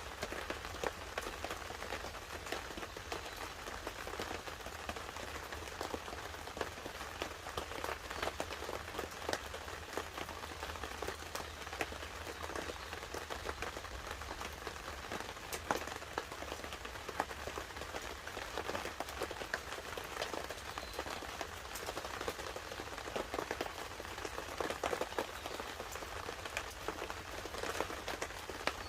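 Light rain pattering on a tarp together with a wood fire burning: a steady hiss dotted with many small sharp ticks and crackles throughout.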